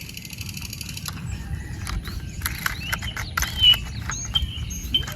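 Small birds chirping in short calls, with scattered light clicks and a low background rumble.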